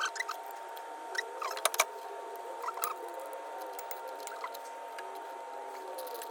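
A few sharp clicks and light metallic knocks from hand tools as the front fork pinch bolts are nipped up, with a faint steady hum underneath.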